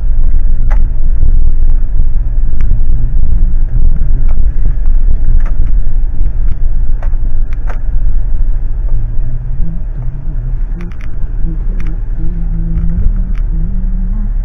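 Car driving slowly, a loud steady low rumble of engine and road noise with scattered clicks and rattles.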